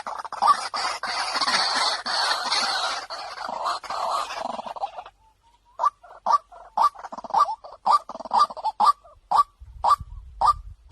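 White-breasted waterhen calls played from a lure recording. A dense chorus of calling lasts about five seconds and cuts off suddenly. After a short pause comes a steady run of short repeated calls, about three a second.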